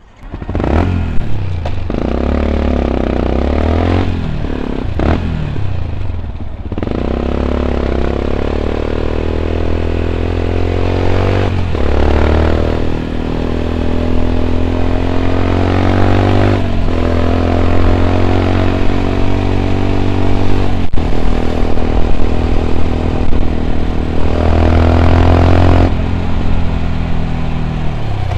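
2014 Yamaha WR 125 X's single-cylinder four-stroke engine, breathing through an Arrow exhaust with a dB killer, pulling away and running through the gears. The pitch climbs and then drops at each of several gear changes.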